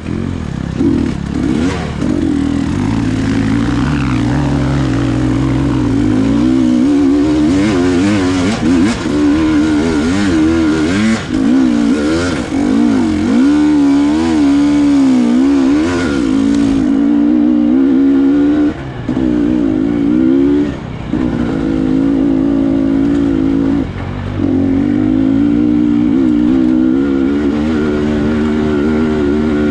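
Enduro motorcycle engine under way off-road, its note rising and falling constantly with the throttle, with a few brief drops when the throttle is shut.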